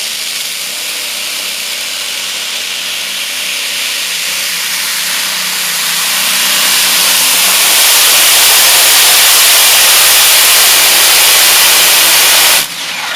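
Modified free-class pulling tractor's engine running flat out under load during a pull. It gets louder partway through, holds, and cuts off abruptly near the end.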